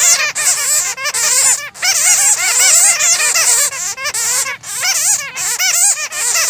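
A colony of bats squeaking and chattering: a dense, unbroken stream of short, arching squeaks from many animals overlapping, with brief lulls every second or two.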